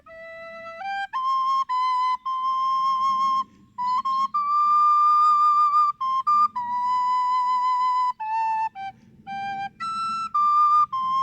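A flute playing a slow, unaccompanied melody of held notes that climbs stepwise at the start, with the longest, highest-sustained note in the middle, a light vibrato on the held notes, and a higher note near the end.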